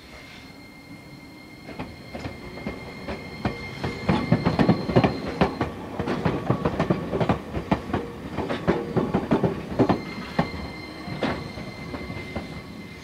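Enoden new 500-series electric train moving slowly out of a depot, its wheels knocking irregularly over rail joints and points, loudest through the middle. A steady high-pitched squeal or whine is heard at the start and comes back near the end.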